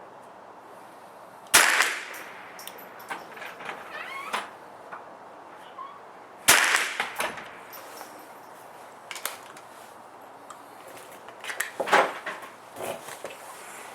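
Two sharp .22 rimfire rifle shots from a Sig 522 semi-automatic, about five seconds apart, each with a short echo tail. Lighter cracks and clicks follow, the strongest about twelve seconds in.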